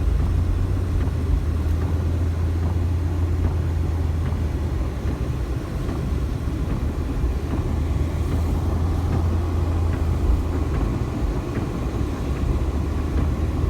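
Steady low rumble inside a moving car with the windows up: engine and road noise heard from the cabin.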